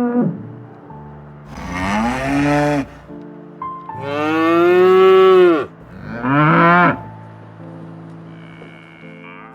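Three drawn-out animal calls, each rising and then falling in pitch, the middle one the longest and loudest, over background music.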